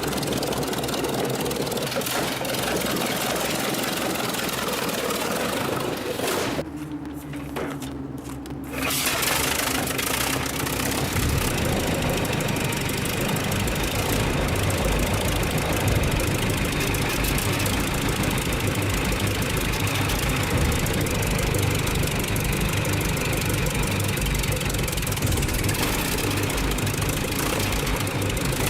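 The 1911 Fiat S76's huge 28.4-litre four-cylinder engine starting and running, after twelve years of restoration. From about eleven seconds in, a deep, uneven engine beat takes over.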